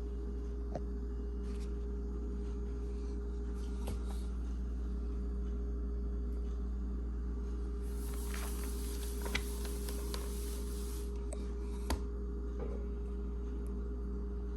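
A steady low electrical-sounding hum, with a brief hiss partway through and two faint clicks near the end.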